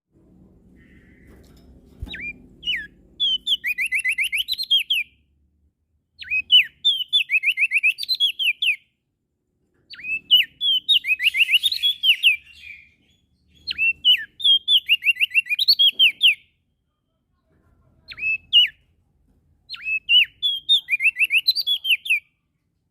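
Opior jambul (crested white-eye), sold in Lombok as prenjak daun, singing loud repeated phrases. Each phrase opens with a couple of downslurred notes and breaks into a fast run of sharp descending notes. There are six phrases with short pauses between them.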